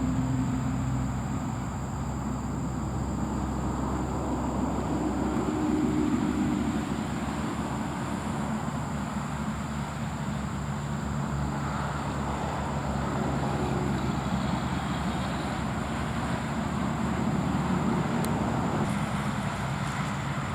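Steady rumble of motor vehicle traffic, with a low engine hum and a thin continuous high tone above it.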